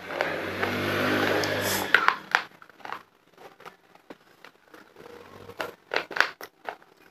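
Close-miked chewing of homemade khadiya chalk pieces. For about two seconds there is dense crunching over a low hum. After that come sparse crunches and mouth clicks.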